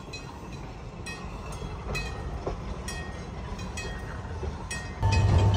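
Rail car rolling along the track, its wheels clicking over the rail joints about twice a second with a steady rumble underneath. About five seconds in, a louder steady hum with a low tone comes in suddenly.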